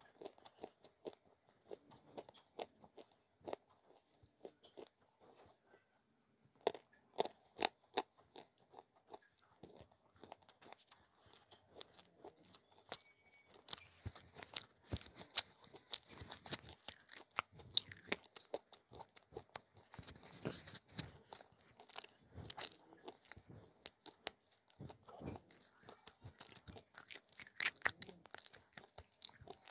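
Close-miked crunching and chewing of baked clay (mitti) and slate pencil pieces: a series of sharp, crisp crunches. They are sparse at first, with a short pause, and come faster and louder from about halfway through.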